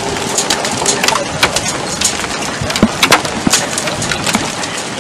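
Rain drops hitting the microphone in a dense crackle of sharp clicks over a steady hiss of rain and wind.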